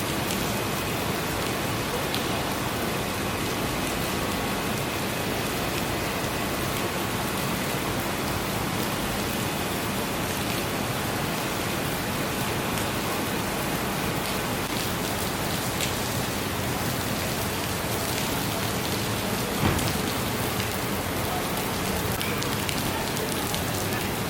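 Rain falling steadily on hard surfaces, an even hiss, with one sharp knock about twenty seconds in.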